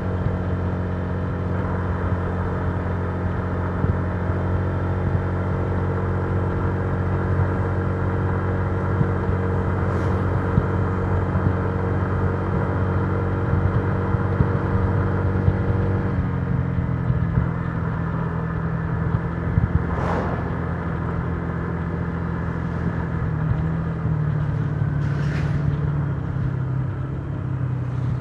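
Honda Giorno 125 scooter's single-cylinder four-stroke engine running at a steady cruise, heard from the rider's seat. About halfway through its pitch drops as the throttle eases, and it shifts slightly again near the end, with a few brief short noises along the way.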